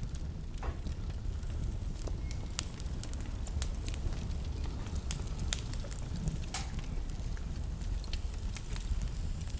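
Wood fire in a fireplace crackling: a steady low rumble of burning with frequent sharp, irregular pops and snaps.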